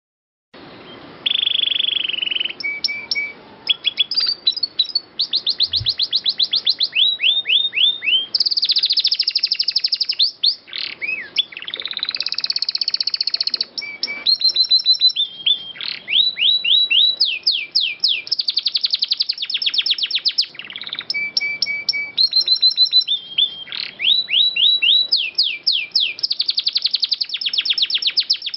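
Domestic canary singing a long, unbroken song of fast trills and rolls, runs of rapid repeated notes and quick rising sweeps, starting about half a second in.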